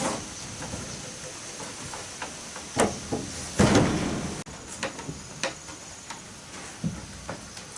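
Irregular knocks and bumps, the loudest a pair of heavier thuds about three and a half seconds in, over a faint steady high-pitched tone.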